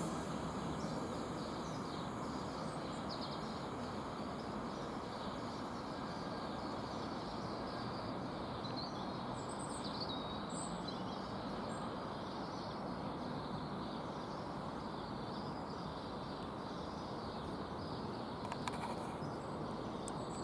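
Steady outdoor background hum, with a few short bird chirps about nine to ten seconds in and a faint click near the end.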